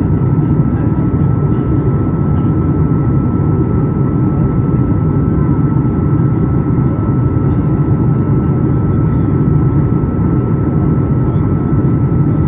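Steady engine noise of a Boeing 737 MAX 8's CFM LEAP-1B turbofans heard inside the cabin: a constant deep rumble with a thin steady whine above it.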